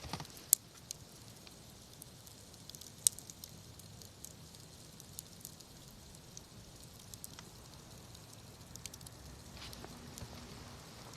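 Wood campfire burning quietly, with sparse crackles and a few sharp pops, two of them loud, about half a second and three seconds in.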